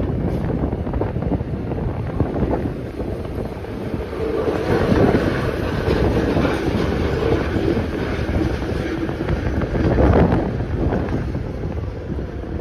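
New York City subway train running on the tracks: a steady rumble with a humming tone rising out of it through the middle stretch. Wind buffets the microphone.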